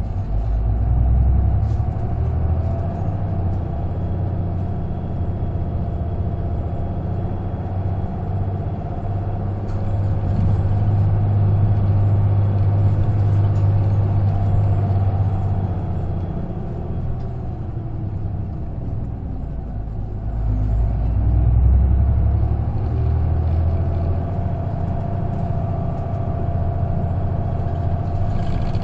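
Interior running sound of an Isuzu KK-LR233J1 non-step route bus: its diesel engine drones steadily under way. The engine note eases off about two-thirds of the way through and then picks up again as the bus pulls away once more.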